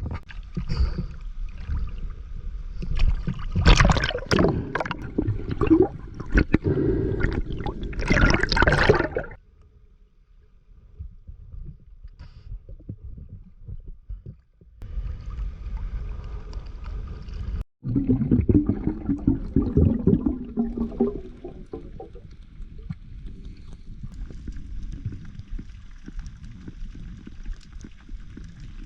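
Sea water splashing and gurgling, loud in bursts over the first nine seconds and again around eighteen to twenty-one seconds in, with a quieter stretch between and a steady low wash near the end.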